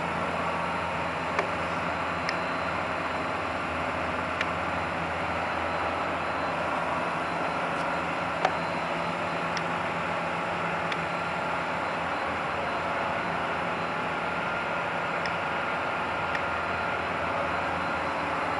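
A steady mechanical hum and whir, like machinery or ventilation running, with a few faint, isolated clicks.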